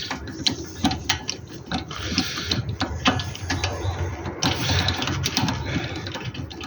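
Hand socket ratchet clicking in irregular runs as bolts are worked on a car, with metallic knocks of tools.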